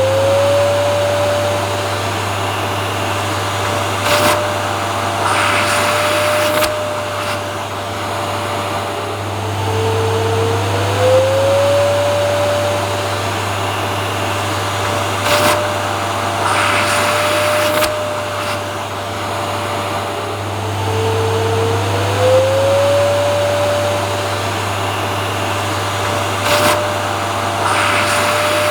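Vacuum cleaner motor running continuously: a steady rushing air noise with a low hum under it. About every eleven seconds a whine rises in pitch and then holds, with short louder bursts of rushing air in between, repeating as if looped.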